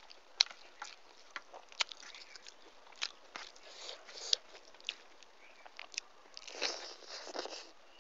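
Close-miked eating sounds: wet chewing of a mouthful of rice with sharp mouth clicks and lip smacks scattered throughout, and a denser stretch of chewing and crunching about six and a half seconds in.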